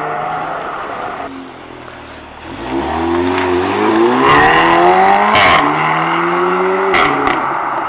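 A car engine revving hard as the car accelerates away, its pitch climbing steeply. About five seconds in there is a short, loud crack as the pitch drops at a gear change, then it pulls on with a second crack near the end. Another engine tails off in the first second.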